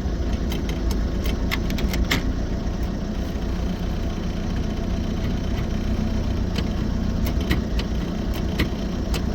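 Austin 7's small four-cylinder side-valve engine running steadily, with scattered sharp clicks at irregular intervals over it.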